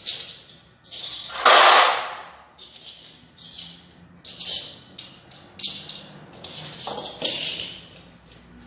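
Irregular metallic clinks and knocks of tools and parts being handled while a single-cylinder diesel engine's cylinder head and valve gear are assembled. One louder clatter of about half a second comes about one and a half seconds in.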